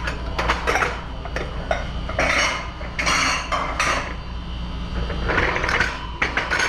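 Plates and silverware clattering and clinking as dishes are handled in a restaurant dish pit, with a few short bursts of hiss over a steady low hum.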